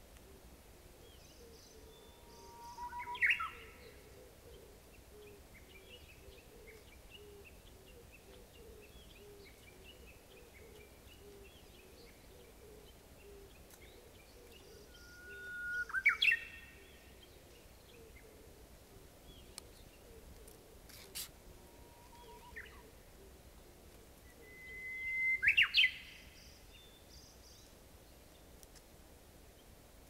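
Japanese bush warbler (uguisu) singing its hō-hokekyo song three times, about ten seconds apart: each song is a held whistled note that breaks into a quick rising flourish.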